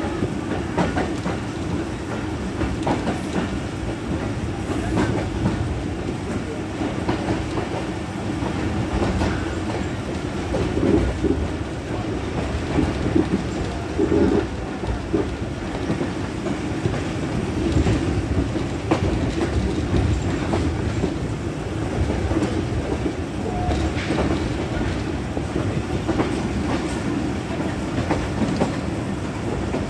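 Passenger train running, heard from inside a coach through an open window: a steady rumble of wheels on rails with irregular clicks and clatter as they pass over rail joints.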